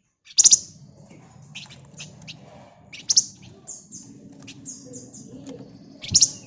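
Flamboyan bird (wergan Jawa, Javan fulvetta) singing in short, sharp high chirps. Loud bursts come about half a second in, about three seconds in and near the end, with a quick run of descending high notes in between.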